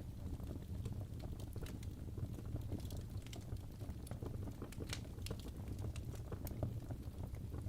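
Wood fire burning in a fireplace: irregular crackles and pops over a steady low rumble of flames.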